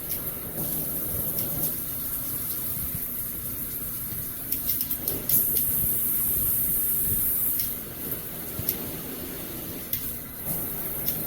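Water spraying steadily from a filtered shower head, a hiss that grows louder for a couple of seconds around the middle, with a few light knocks.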